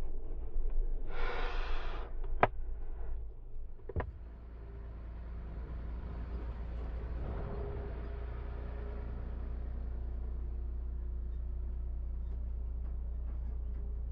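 Barn owl in a nest box giving one short breathy hiss about a second in, followed by two sharp clicks, then a steady low hum.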